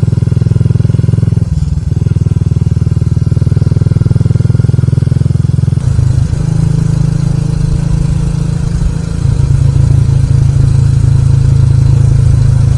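Motorcycle running at riding speed, with heavy wind noise on the microphone; the rumble shifts about six seconds in and again about nine seconds in.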